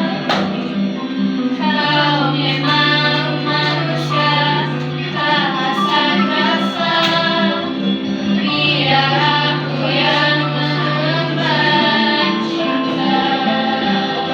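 A high voice singing slow, held melodic lines over instrumental accompaniment with sustained bass notes.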